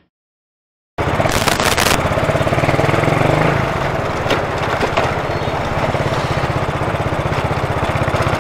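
Silence for about a second, then a motorcycle engine running steadily at low road speed with a rapid, even firing beat, and a brief hiss near the start.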